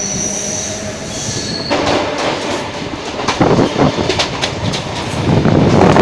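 Suburban electric local train pulling away: a thin high wheel squeal for the first second or two, then a rising rush of running noise with sharp clatter of wheels over rail joints as it picks up speed. It is heard from the open doorway and gets louder near the end.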